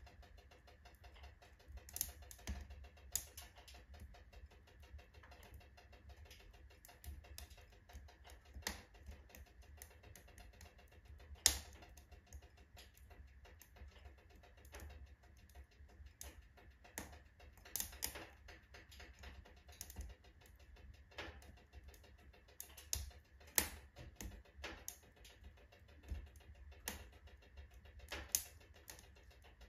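Wood fire burning in a wood stove, crackling with irregular sharp pops and snaps; the loudest pop comes about a third of the way in.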